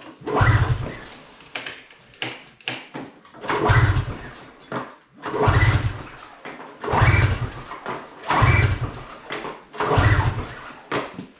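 Snowmobile engine being pull-started: about six hard pulls on the recoil starter, one every second and a half or so, each cranking the engine over briefly without it catching.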